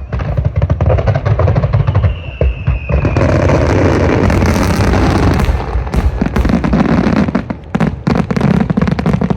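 Fireworks display: steady low booming from aerial shells, with a short whistle about two seconds in. A dense crackling follows, then a rapid string of sharp bangs in the last few seconds.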